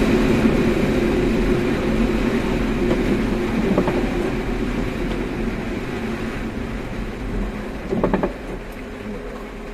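A car driving, with a steady rumble of engine and road noise that slowly grows quieter, and short knocks about four and eight seconds in.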